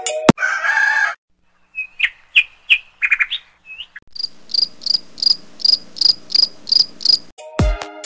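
Birds chirping: first a few rising high chirps, then a run of evenly spaced high chirps, about three a second.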